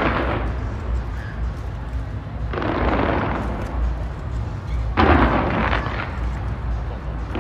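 Fireworks display launched from the Taipei 101 skyscraper: three loud booms about two and a half seconds apart, each trailing off over a second or so, over a steady deep rumble of continuous firing.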